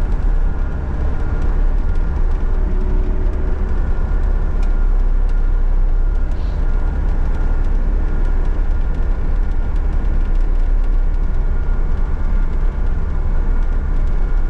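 John Deere 60G compact excavator's diesel engine running steadily, without any big change in pitch, while the machine is driven over to the work spot.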